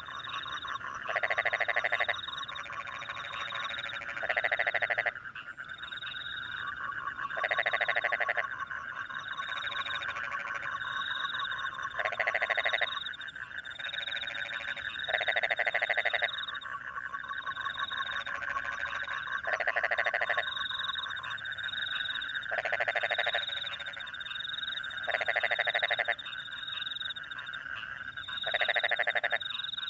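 A chorus of rice-paddy frogs after rain. A steady trilling runs underneath, and a louder croaking call about a second long comes roughly every three seconds, nine times in all. Crickets chirp alongside in short, high, repeated pulses.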